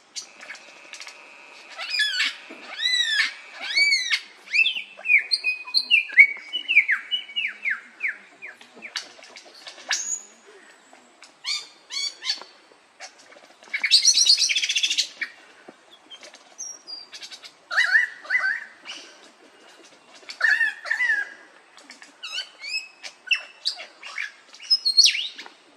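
A mimicking songbird singing a long, varied string of chirps, arching and gliding whistled notes and quick trills, with pauses between phrases. A harsh, raspy burst comes about two-thirds of the way in.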